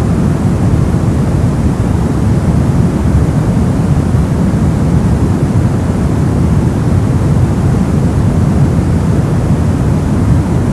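Brown noise: a steady, even rushing hiss with its weight in the low end and little treble, unchanging throughout.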